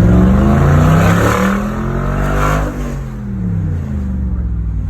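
Audi V8 engine with a loud customised dual exhaust, revved up: the pitch climbs, holds, then falls back about three seconds in.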